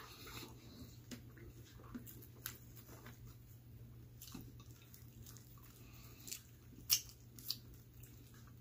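Close-up chewing and crunching of frozen pepperoni pizza with a hard crust, which the eater thinks may have been baked a little too long. Scattered small crunches and clicks throughout, with the two sharpest coming near the end, over a low steady hum.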